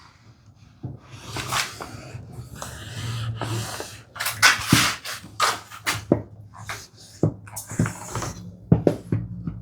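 Household iron being pushed back and forth over fabric glued to wooden tambour slats, making irregular short swishes with a few knocks as it is set down and moved.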